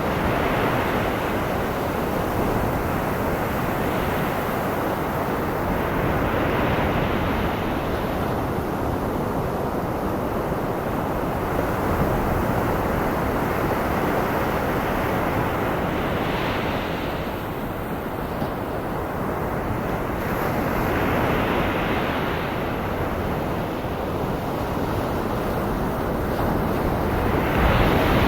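Ocean surf breaking in slow swells every five or six seconds, blended with a steady bed of white noise hiss.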